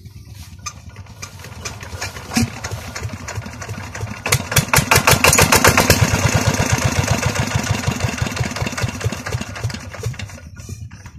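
Petter diesel engine of a tube well running with a rapid, regular firing beat. It grows much louder about four seconds in, then slowly eases off.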